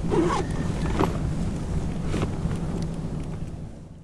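A few light knocks and handling noises over a steady low rumble, as a caught trout is put away on ice in a kayak cooler. The sound fades out at the very end.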